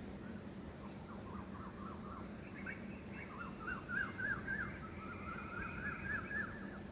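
Birds chirping in quick runs of short notes that rise and fall, loudest around the middle, over a steady background hiss.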